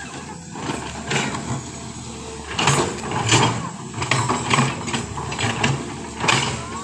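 Machinery at work: an engine running low and steady under irregular knocks and clatter, a stroke every half second or so.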